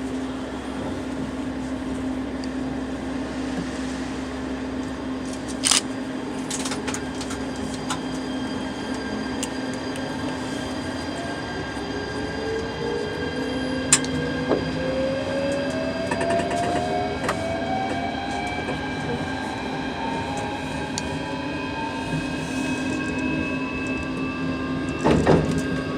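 JR Shikoku 8600 series electric train pulling away and accelerating, its traction motors giving a whine that climbs steadily in pitch from about halfway. Wheels click over rail joints and points now and then, with a louder clatter near the end.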